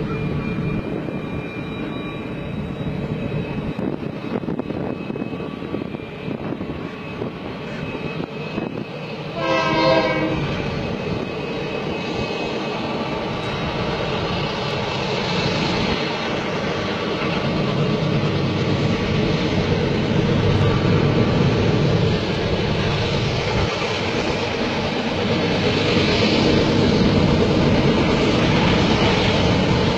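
Diesel freight locomotives pulling a long container train out of a tunnel, their engines running steadily and growing louder as they pass. One short horn blast sounds about a third of the way through.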